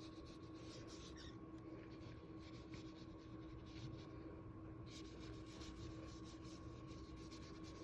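Faint, irregular scratchy strokes of a water brush being worked over thick paper to spread marker ink, over a steady low electrical hum.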